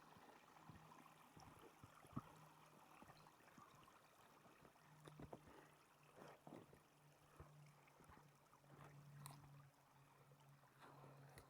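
Near silence: a faint steady low hum with scattered faint, irregular crunches and ticks.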